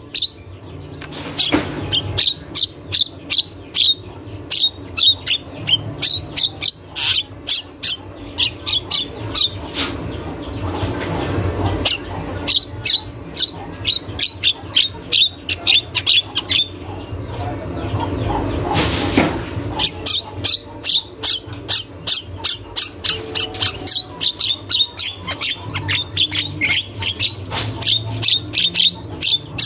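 Javan myna (jalak kebo) in full song, calling nonstop. It gives a rapid string of short, sharp high notes, about two or three a second, broken twice by longer, harsher and noisier phrases.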